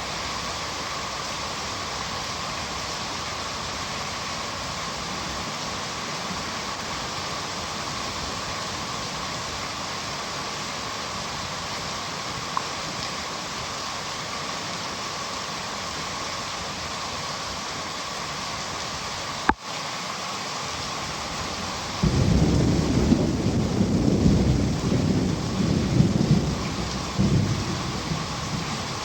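Heavy rain falling in a steady hiss, with a loud low rumble of thunder rolling in about three quarters of the way through and fading over several seconds. A sharp click sounds a little before the thunder.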